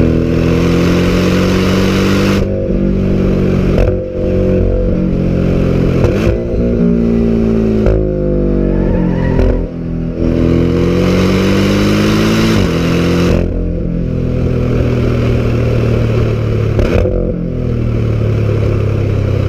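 Porsche sports car engine and exhaust at full throttle. The pitch climbs as it revs and drops sharply at each gear change, several times over.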